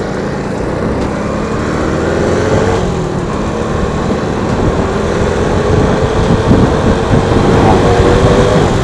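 Suzuki Shogun 110 underbone motorcycle's single-cylinder four-stroke engine running under way, its pitch climbing as it accelerates, dropping about three seconds in, then climbing again. Wind rushes on the microphone throughout.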